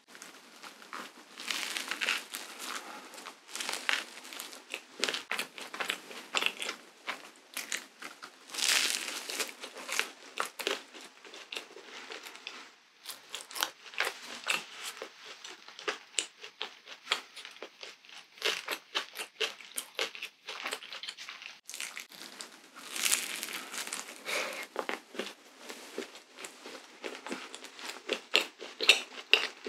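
Close-miked eating of a crisp waffle: a bite at the start, then chewing with crunching and wet mouth clicks, and the crinkling of the wrapper held around the waffle.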